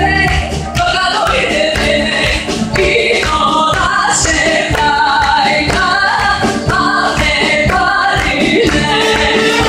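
A live band playing a Macedonian folk song with a lead singer's voice over a steady beat.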